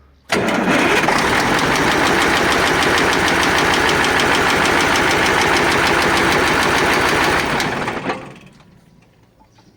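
KAMAZ truck diesel engine catching at once, running steadily for about seven and a half seconds, then shut down and dying away. This truck knocks and is throwing out coolant, and gas bubbles are showing in its cooling system.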